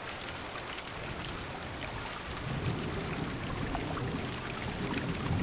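Heavy rain pattering steadily on a car window, with individual drops ticking. A low rumble of thunder starts building about halfway through and grows louder toward the end.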